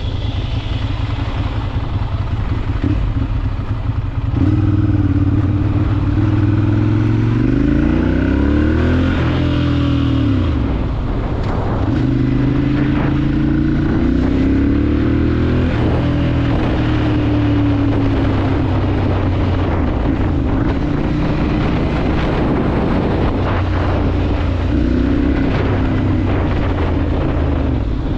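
Ducati Monster 796's air-cooled L-twin engine under way: the pitch climbs twice, each time dropping away as if at a gear change, then eases off and settles to a steady cruise, with a short rev near the end.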